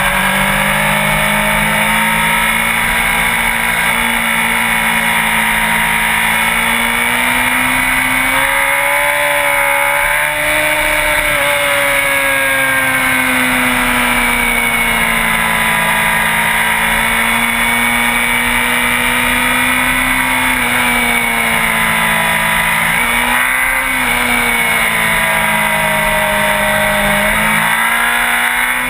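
Sport bike engine running under way, its pitch rising and falling slowly as the throttle opens and closes, over a steady rush of wind.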